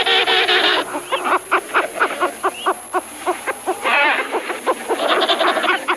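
Penguins calling: a dense stretch of calling, then a run of short pitched honks at about four a second, then longer, fuller calls near the end.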